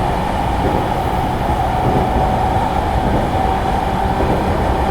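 JR E217 series electric commuter train running at speed, heard from inside the passenger car: steady rumble of wheels on rail with a faint steady whine.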